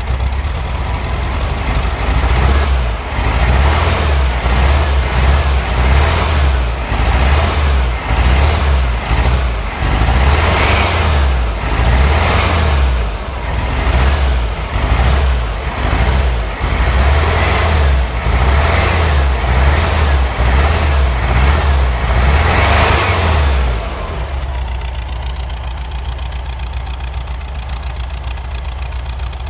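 1965 Volkswagen Karmann Ghia's air-cooled flat-four engine being revved over and over in short blips, then settling to a steady idle for the last few seconds.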